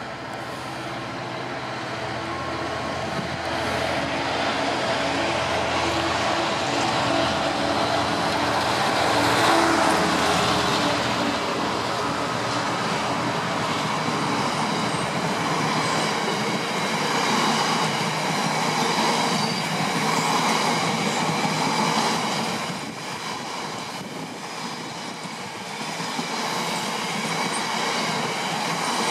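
Diesel freight locomotive approaching and passing, its engine growing louder to a peak about ten seconds in. Then a long train of coal hopper wagons rolls by, its wheels rumbling and clattering on the rails with thin high tones over the noise.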